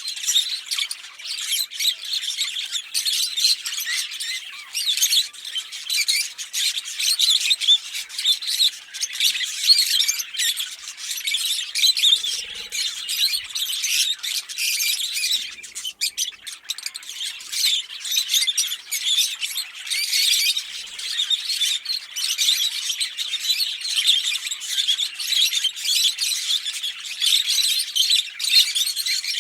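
A pair of Fischer's lovebirds chattering without pause: rapid, shrill chirps and squawks.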